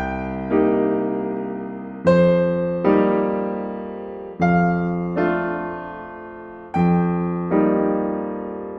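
Slow, gentle solo piano music: soft chords struck in pairs about two and a half seconds apart, each left to ring and fade.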